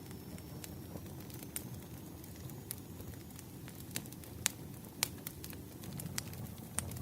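Wood campfire burning with a steady low rumble of flame and sharp, irregular crackles and pops from the burning logs, a few louder snaps in the second half.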